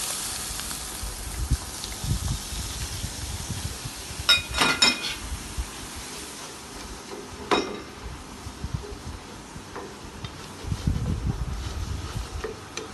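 Canned mushrooms sizzling in a pan as fresh cream is stirred in; the sizzle dies down over the first couple of seconds. A spoon clinks against the pan several times about four to five seconds in and once more near seven and a half seconds.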